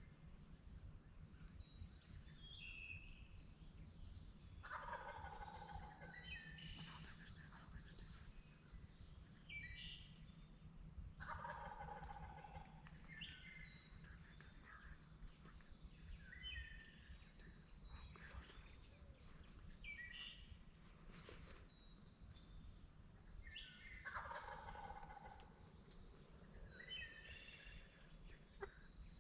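Wild turkey gobbling three times, faint and distant, about five seconds in, again about eleven seconds in, and near the end. Small songbirds chirp throughout.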